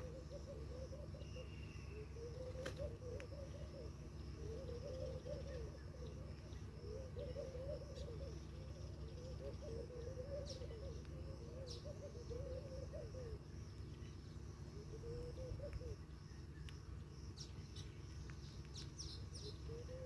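Birds calling: a low, wavering cooing call repeated in phrases of about a second, with a few short high chirps and sharp clicks, over a steady low background rumble.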